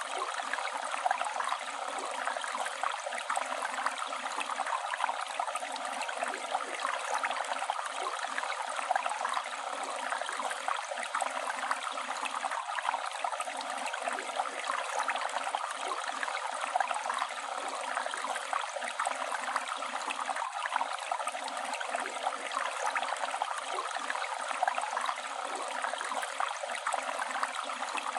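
Flowing river water: a steady rush and babble of a stream running over stones, with small splashes throughout.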